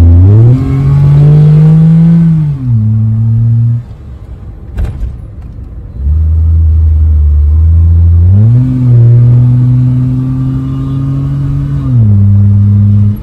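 Car engine revving: the pitch rises, holds steady for a few seconds, then falls back. This happens twice, each run starting and stopping abruptly.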